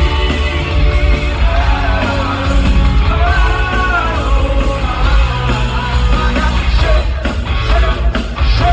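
A rock band playing live and loud, the lead vocal held in long sliding sung notes over a heavy bass and drums.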